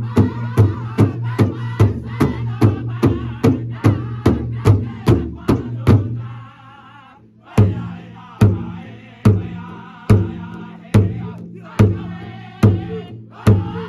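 Powwow drum group: several singers striking a large shared drum in unison while singing together. The drum keeps a fast, even beat of nearly three strokes a second, stops for about a second and a half while the voices carry on, then comes back at a slower beat of a little over one stroke a second.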